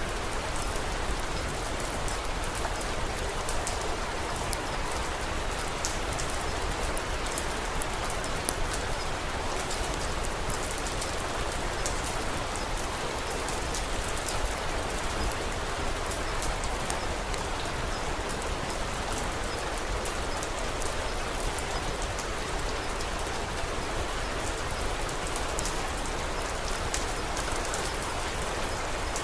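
Steady, even rain falling, with many small sharp ticks scattered throughout.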